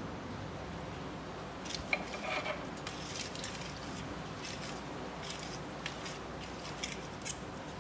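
Pan being greased with olive oil by hand: faint scattered clicks and rubbing, over a steady low background hum.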